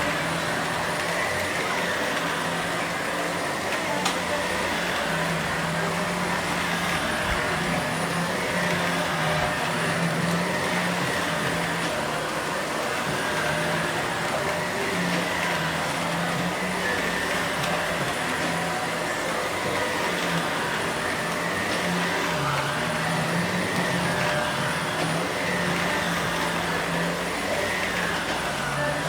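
Vacuum cleaner running steadily, its motor hum wavering slightly in pitch.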